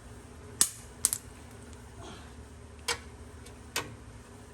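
Several short, sharp metal clicks, with a quick pair about a second in, from small hand tools and bolts being handled and set down.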